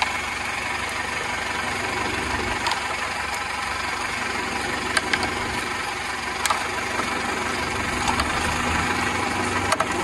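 Toyota Camry engine idling steadily under an open hood, with a few faint sharp clicks as a screwdriver turns the headlight's aim-adjuster screw to lower the beam.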